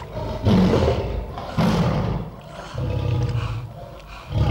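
Tiger roaring: two sudden loud roars about a second apart, then a low rumbling growl that comes and goes.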